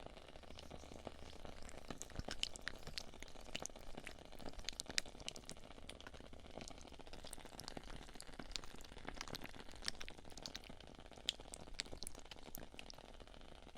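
Wood-wick candle crackling: faint, irregular little pops and ticks over a soft hiss, like a tiny campfire.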